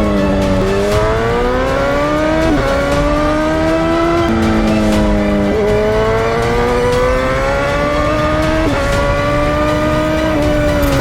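Motorcycle engine under way, its pitch climbing and then dropping back sharply several times as it accelerates and changes gear.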